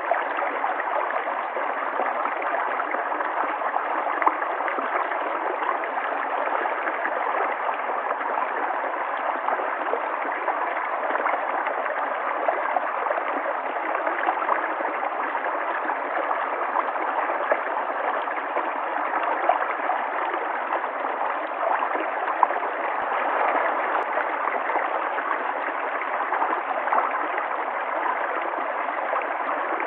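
River water flowing steadily: a continuous, even rush and babble of moving water that holds at one level throughout, with no deep rumble.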